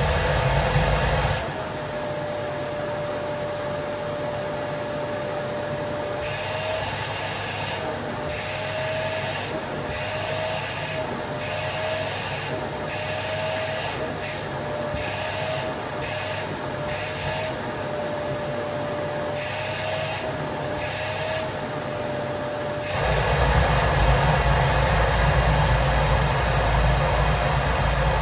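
Vacuum cleaner running with a steady motor whine. Through the middle the suction hiss comes and goes in short strokes, and near the end it turns louder and deeper for several seconds.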